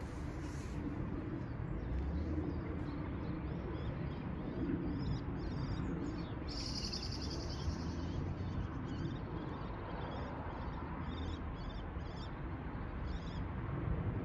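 Small birds chirping and calling in short, irregular phrases over a steady low background rumble.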